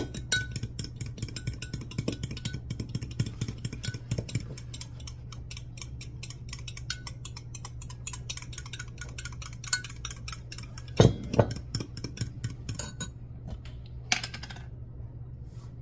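A fork beating two eggs in a container, a rapid, steady clicking of the fork against the sides that stops about 13 seconds in. There are a couple of louder knocks near 11 seconds and a brief scrape near the end.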